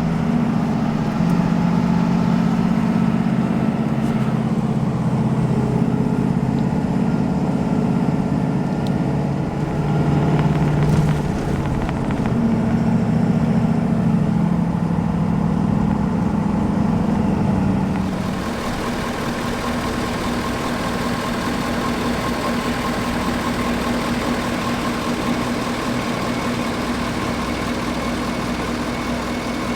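A vehicle engine running steadily while driving, its pitched hum shifting every few seconds. About 18 seconds in the sound changes to a lower, steadier hum.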